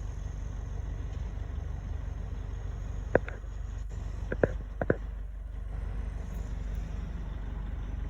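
Steady low rumble of an idling vehicle engine, broken by four short sharp knocks a little before the middle.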